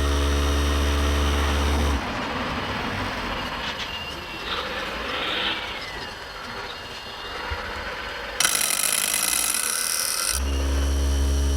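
RC model construction machinery: a steady low mechanical hum cuts off abruptly about two seconds in and starts again near the end. About two seconds before it returns there is a sharp hiss, and a fainter whining and working noise lies in between.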